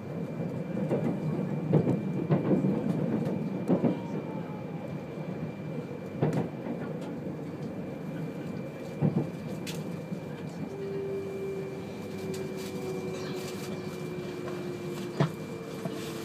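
Running noise inside a 200-series Shinkansen car as it slows into a station, with several sharp knocks and rattles in the first few seconds. From about ten seconds in, a low whine comes in and slowly falls in pitch as the train brakes.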